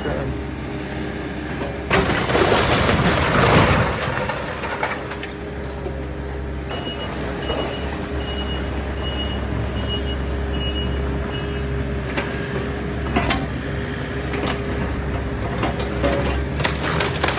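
Heavy construction machinery running with a steady low engine rumble. A loud crashing, crushing noise about two seconds in lasts a couple of seconds. A series of short high beeps sounds from about seven to eleven seconds in, with scattered knocks after.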